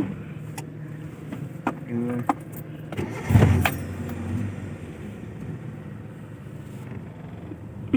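Car engine running steadily, heard from inside the cabin while a learner drives slowly, with scattered clicks and a short louder knock about three and a half seconds in.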